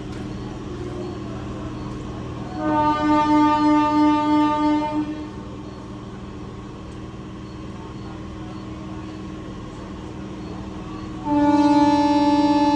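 Indian train's air horn sounding two long blasts, each a chord of several steady pitches: the first lasts about two and a half seconds, the second starts near the end and is still sounding. A steady low hum from the train runs underneath.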